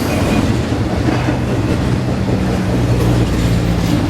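Freight train cars loaded with trailers rolling past, a loud, steady rumble of steel wheels on rail with clickety-clack over the joints and a steady low hum.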